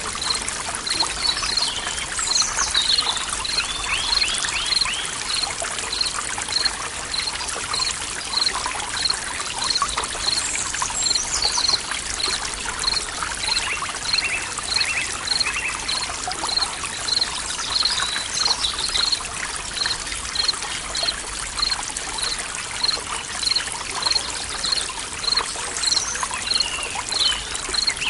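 Forest ambience: a stream running steadily, with birds calling on and off and a high, regular chirp repeating about three times every two seconds.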